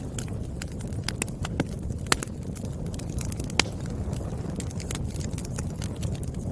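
Wood fire crackling: frequent sharp pops and snaps of burning firewood over a steady low rumble, with two louder pops about two and three and a half seconds in.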